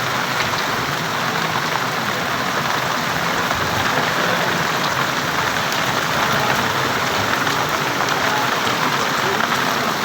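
Heavy rain falling steadily: a dense, even hiss with the patter of drops.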